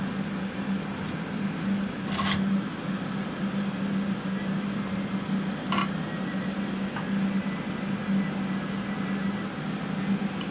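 Steady hum of fume-extraction fans running, with a couple of short clicks about two and six seconds in.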